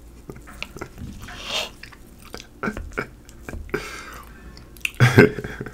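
Close-miked mukbang eating sounds: chewing pancakes, with short sharp clicks of a fork against the plate. There is a short breathy laugh.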